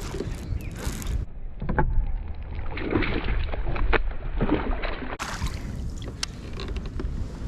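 A kayak moving on the water: the wash and splash of the water with scattered sharp knocks and clicks against the hull.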